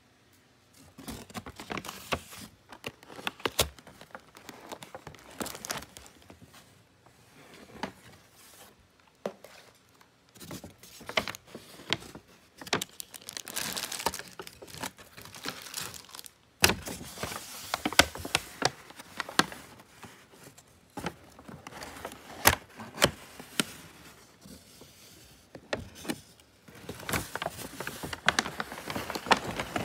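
Food packaging crinkling and rustling as it is handled, with many irregular sharp clicks and taps.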